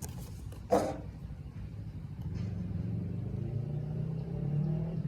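A motor vehicle engine running, its low hum rising slowly in pitch toward the end. A brief sharp noise stands out under a second in.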